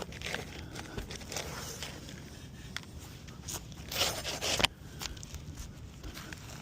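Asphalt roof shingles being lifted and handled: scattered crackles and short scrapes, with a longer, louder scrape about four seconds in.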